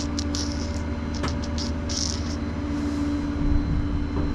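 Truck engine idling with a steady low hum, with a few short clicks and scraping hisses in the first couple of seconds.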